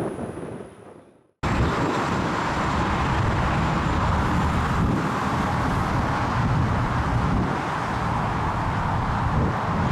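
Something fades out over the first second, then after a brief silence a steady outdoor rumble starts abruptly: gusty wind buffeting the microphone, heavy in the low end.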